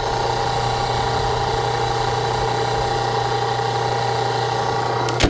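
Hydraulic log splitter's power unit running steadily with an even hum, and a single sharp knock just before the end.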